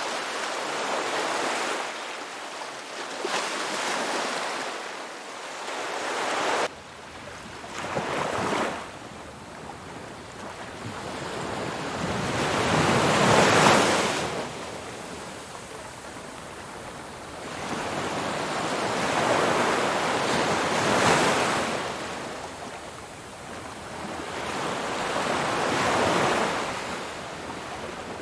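Ocean waves breaking and washing up a beach, surging and easing every four to six seconds. The sound drops suddenly about six seconds in, then the waves go on.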